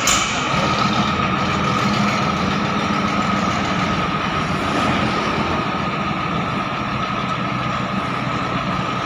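YTO 1304 130 hp tractor's diesel engine running steadily, with a steady high whine over the engine hum. A brief click right at the start.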